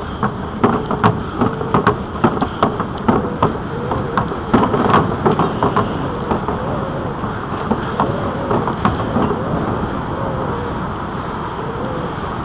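Bicycle ride on a trail: a steady rushing noise of wind and rolling, with a run of irregular knocks and rattles through the first nine seconds or so, then easing to the steady rush.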